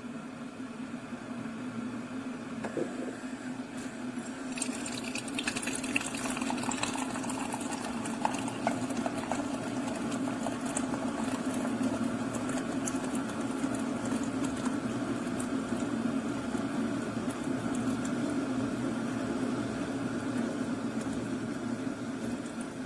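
Keurig K-Classic single-serve pod coffee maker brewing: its pump hums steadily while liquid pours into the cup, with a stretch of crackly spitting about five seconds in.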